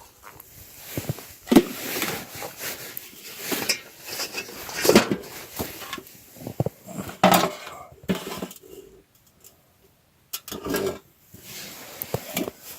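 Cookware being handled: irregular clinks, knocks and scrapes of a pan and metal utensils.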